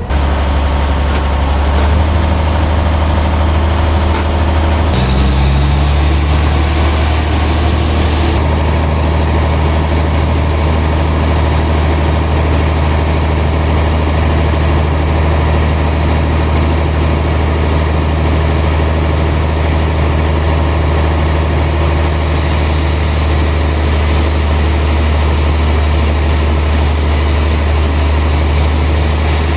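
Sawmill machinery running: a steady, loud low engine drone that shifts slightly in pitch about five seconds in, with more hiss added in the last third.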